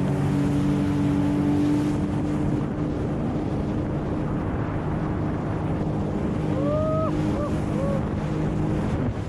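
Sea-Doo GTX Pro 130 jet ski's three-cylinder Rotax engine running at steady revs while turning donuts, over rushing water and wind on the microphone.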